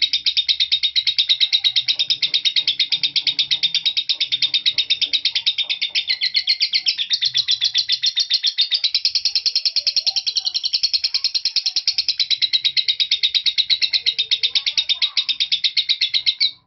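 Lovebird ngekek: one long, unbroken run of rapid, shrill chattering chirps, the semi-konslet style of song that runs on without breaks. It cuts off abruptly near the end.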